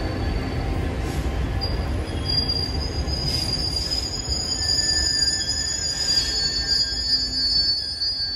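Train running past with a steady low rumble; about a second and a half in, its wheels begin squealing on the rails in high, thin, held tones that stay until the sound cuts off suddenly at the end.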